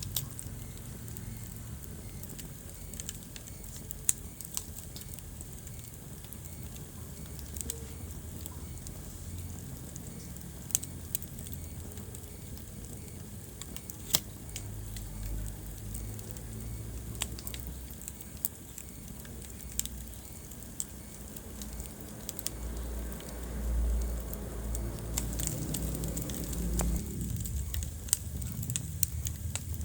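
Wood fire burning in a fireplace, crackling steadily with sharp pops every few seconds. A low rumble swells and fades near the end.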